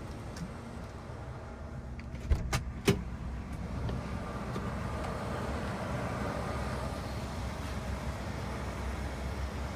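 1977 Cadillac Eldorado Biarritz's V8 engine running steadily, with three sharp clicks a couple of seconds in, after which the engine sound grows a little louder and holds.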